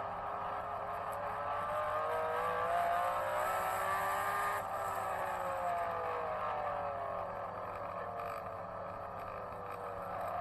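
Engine of a vehicle lapping a race circuit: its pitch climbs over the first few seconds, then falls away as it passes by.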